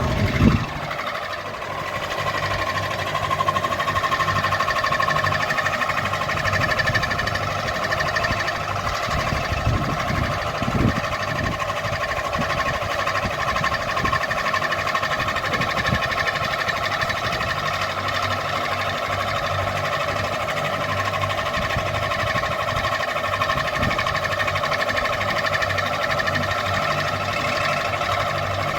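Ceiling fan running steadily, its motor giving a constant whirring hum with a faint rhythmic rattle underneath. A brief knock sounds just after the start, and a smaller one about eleven seconds in.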